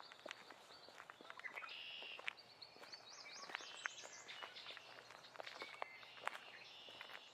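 Footsteps crackling on the forest floor, with several birds singing; around three to four seconds in, one bird gives a quick run of rising-and-falling notes.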